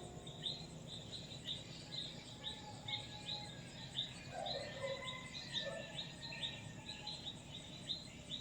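Steady, rhythmic high-pitched chirping, about two short chirps a second, with a faint lower call near the middle, in a pause between church bell peals.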